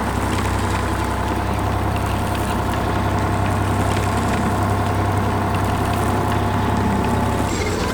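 Construction-vehicle engine sound effect running steadily as a deep, even hum, cutting off near the end.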